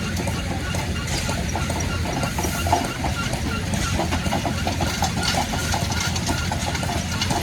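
An engine running steadily, with a hiss and a scatter of light mechanical clicks over its low, even note.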